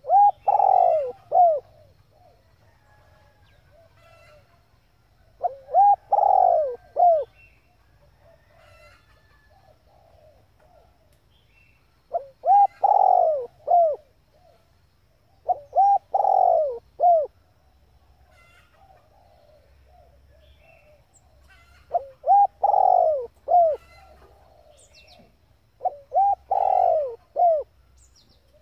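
Female spotted dove cooing: six short phrases of a few soft, curved coo notes each, repeated every few seconds. The recording is meant to excite a male decoy dove.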